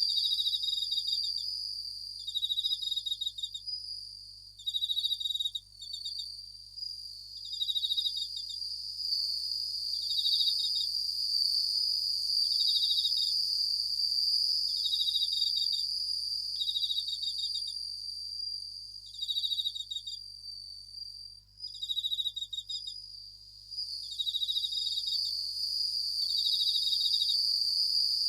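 Japanese bell crickets (suzumushi) singing: short, rapidly pulsed ringing chirps of about a second, repeated every second or two, over a steady high-pitched insect ringing.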